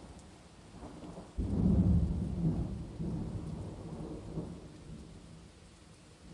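A thunderclap breaks sharply about a second and a half in and rolls on as a deep rumble that slowly dies away over several seconds. Steady rain hisses underneath.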